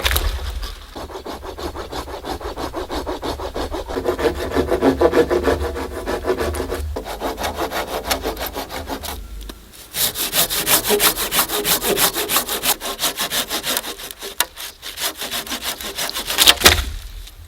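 Hand saw cutting through wood with rapid, even back-and-forth strokes. The sawing stops briefly about nine and a half seconds in, then picks up again with a brighter, rasping tone, and there is a single louder knock near the end.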